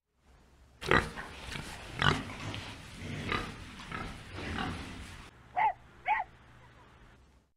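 Pigs grunting and squealing, a loud cry about every second, for about four seconds. Near the end, a puppy gives two short, high yips.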